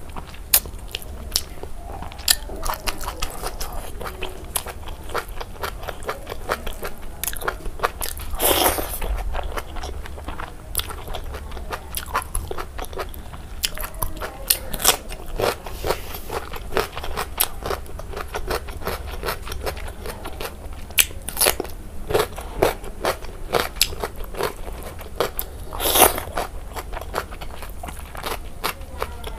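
Close-miked eating sounds: a person chewing pork belly curry and rice with many wet mouth clicks and smacks, with crisp crunching bites of raw cucumber.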